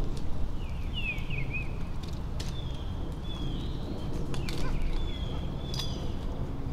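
Birds calling outdoors: short slurred whistled notes repeated every second or so, with a quick twittering run about a second in. Under them is a steady low rumble, and there are a few faint clicks.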